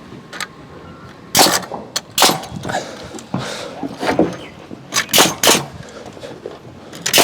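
Nails being driven into timber wall framing: a string of sharp bangs at uneven intervals.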